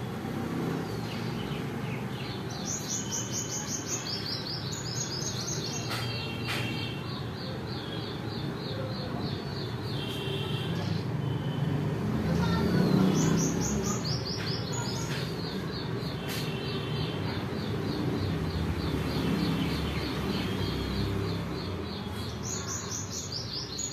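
Birds singing: every few seconds a phrase of rapid, high chirps stepping down in pitch, over a steady low background rumble.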